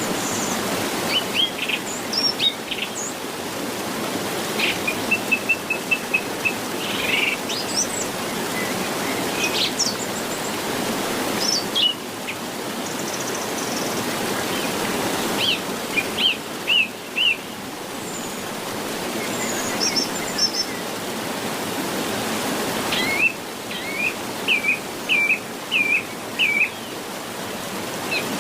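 Small birds chirping and calling: short, separate calls, including a quick run of notes about five seconds in and a series of four looping notes near the end, over a steady rushing background noise.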